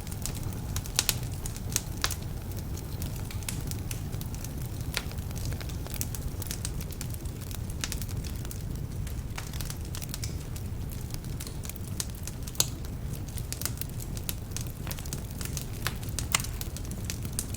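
Wood fire burning in a fireplace: a steady low rumble of flames under irregular sharp crackles and pops from the logs, with a few louder snaps. Some of the logs are damp, which adds to the crackling.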